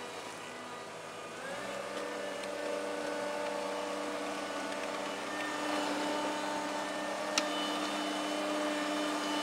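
Bobcat skid steer engine running, stepping up to a higher steady speed about a second and a half in as the throttle is opened, with a single sharp click later on.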